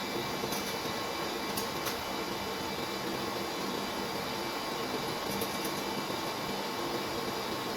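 A steady mechanical hum at a constant level, with a few light clicks.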